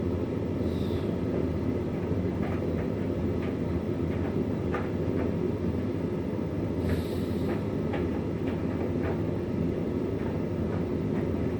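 Hoover 9 kg tumble dryer running with a small load of towels: a steady drum-and-motor rumble with occasional light ticks.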